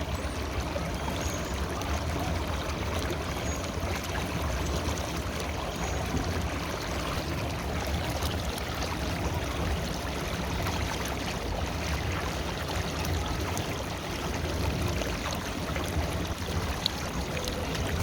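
River water flowing steadily, an even, continuous rushing with a deep low rumble underneath. A single brief tick sounds near the end.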